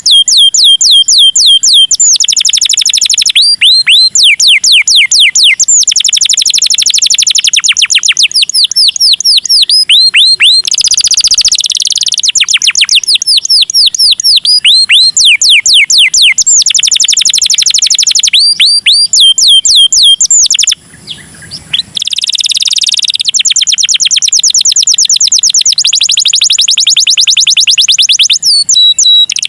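Domestic canary singing a long, loud song of rapid trills, each a fast run of repeated high notes sweeping downward, changing from one trill to the next, with a brief break about two-thirds of the way through.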